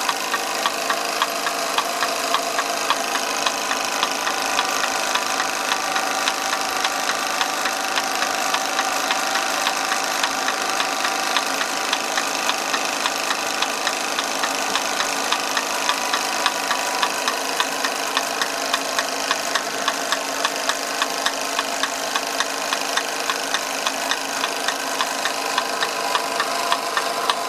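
1930s Bing twin-cylinder toy steam engine running steadily under steam, with a continuous hiss and regular light knocks at about two a second.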